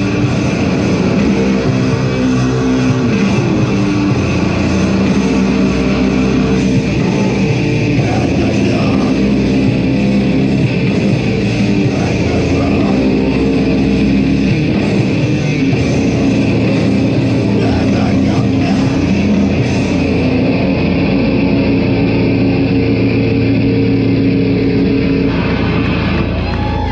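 Heavy metal band playing live: loud, continuous distorted guitars over drums.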